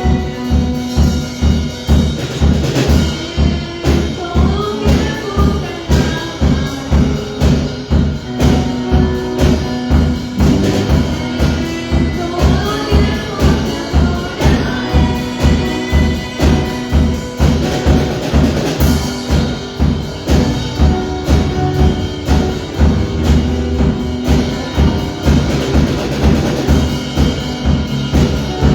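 Live band playing upbeat Christian praise music: a steady drum and bass beat at about two beats a second under a melody line, with little or no singing.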